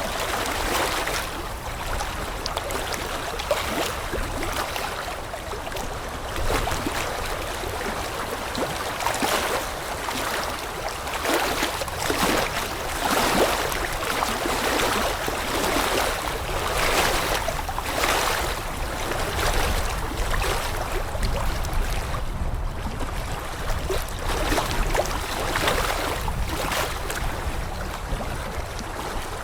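Water rushing and splashing in uneven surges every second or two, with a low rumble underneath.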